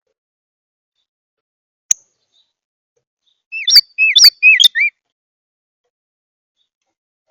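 A backyard bird chirping at a feeder: a quick run of four chirps about halfway through, after a single sharp click.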